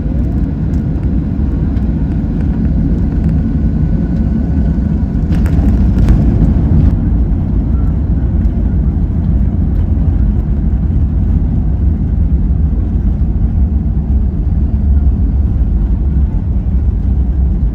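Airbus A321 cabin noise: a loud, steady low rumble, with a brief louder clatter about five to seven seconds in.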